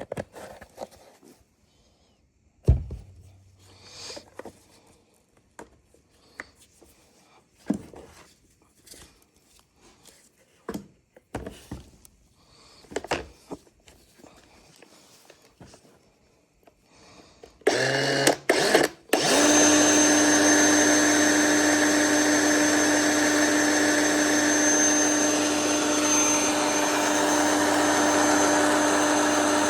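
Parts being handled with scattered knocks and clicks and one sharp hit, then an electric chainsaw motor triggered in a few short bursts and run steadily with a constant whine, as when testing whether the bar and chain oil pump now works.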